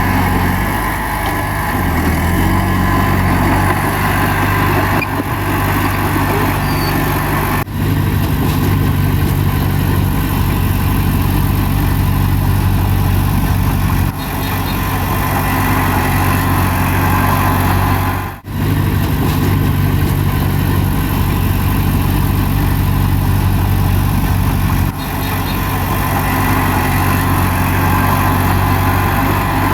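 Heavy diesel engine of a bulldozer running steadily at a working site, with a few brief dropouts in the sound.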